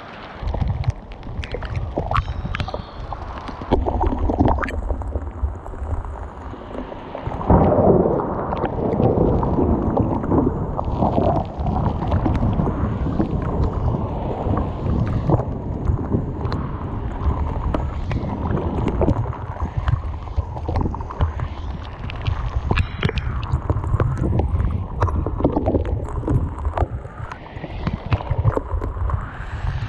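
Strong wind buffeting the microphone in gusts as a deep rumbling roar, strongest from about seven seconds in, with many scattered sharp ticks over it.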